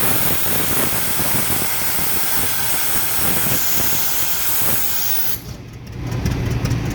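A steam traction engine's safety pop valve blowing off steam in a loud, steady hiss that cuts off about five and a half seconds in: the boiler has reached full pressure.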